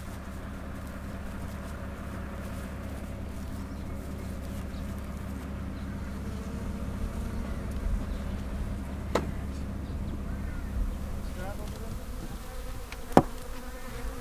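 Honeybees buzzing steadily around their hives in a low hum. A sharp click comes about nine seconds in, and a louder knock near the end.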